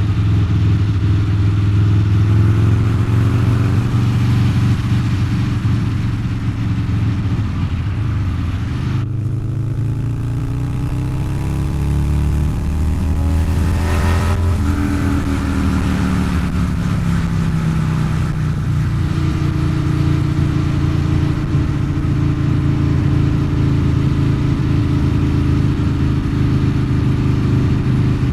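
Harley-Davidson Low Rider's 129 cubic inch V-twin running through a Two Brothers Racing exhaust while riding. The note is steady at first, falls and rises again near the middle, then holds steady.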